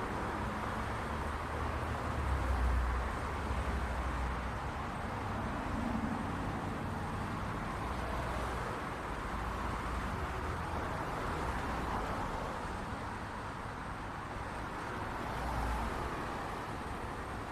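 City street traffic: a steady wash of passing cars with a low engine rumble that swells as vehicles go by, most strongly a few seconds in and again near the end.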